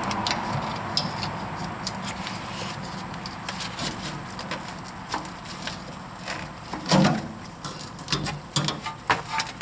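Irregular clicks, taps and light knocks of hand work, with one louder knock about seven seconds in.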